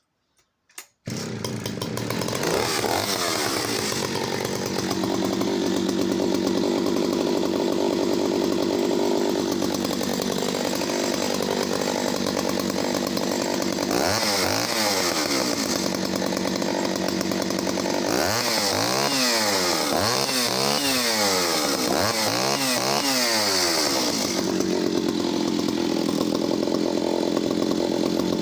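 Echo CS-602VL two-stroke chainsaw engine starting about a second in and running at idle. It is revved once around the middle, then revved several times in quick succession, and settles back to idle near the end.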